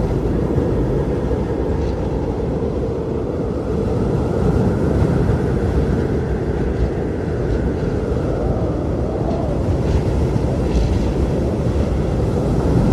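Strong blizzard wind blowing steadily with a deep rumble, and a howling tone that rises and falls in the middle.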